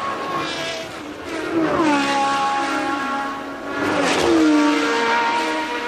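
1982 Formula One cars passing at racing speed, two in turn, about two seconds and four seconds in. Each engine note drops in pitch as the car goes by.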